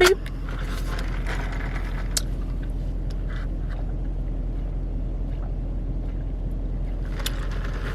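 Steady low rumble inside a car's cabin, with the engine running and the climate fan blowing air, and a few light clicks in the first couple of seconds.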